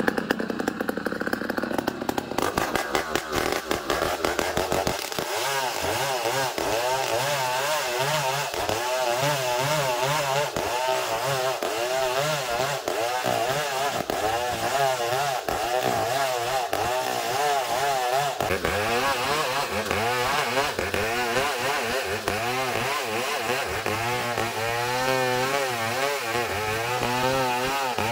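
Engine-driven sawmill saw cutting through a long ironwood (ulin) log, running continuously with its pitch wavering up and down under the load.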